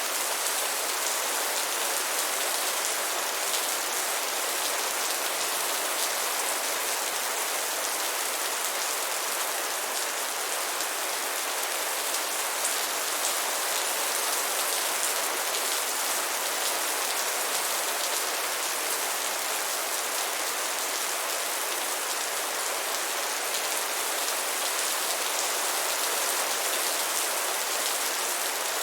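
Steady rain falling: an even, unbroken hiss of many drops, without pauses.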